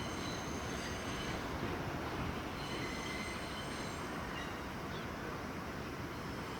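Train running on the JR Sanyo Line: a steady rumble with thin high squealing tones that come and go, most plainly near the start and around the middle.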